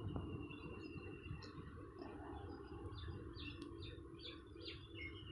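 Small birds chirping faintly, a quick run of short repeated chirps in the second half, over a low background hum.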